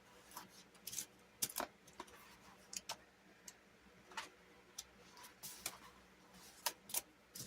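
Paper sticker sheets being handled and sticker boxes peeled off: faint, irregular light clicks and crinkles.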